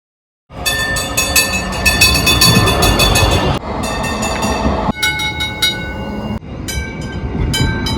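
Tram running on the rails: clattering with several high ringing, squealing tones from the wheels, in short spliced pieces that start and cut off abruptly.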